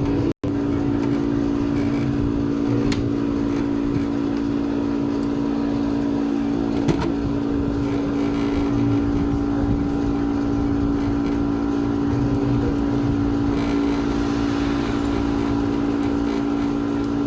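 A steady mechanical hum with a few faint clicks, and a brief cut-out about half a second in.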